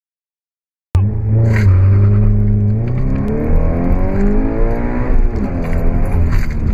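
Silence for about the first second, then a 2013 Scion FR-S's 2.0-litre flat-four engine heard from inside the cabin, pulling under acceleration with revs rising steadily. About five seconds in the revs fall sharply, then build again.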